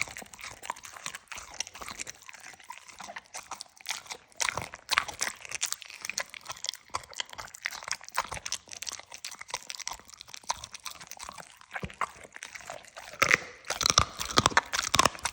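A dog crunching and chewing a dry snack: irregular crunches throughout, with a louder, quicker flurry near the end.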